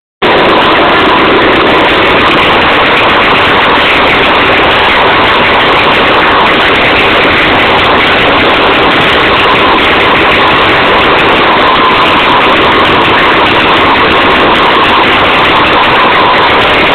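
Engine running loudly and steadily, close to the microphone, with no clear rises in pitch.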